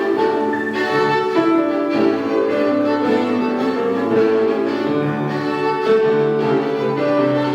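Violin playing a melody with sustained bowed notes, accompanied by piano.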